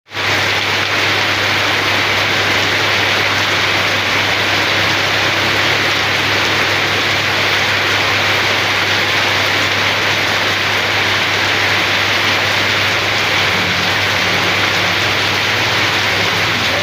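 Steady rain: an even hiss that fades in at the very start, with a steady low hum underneath.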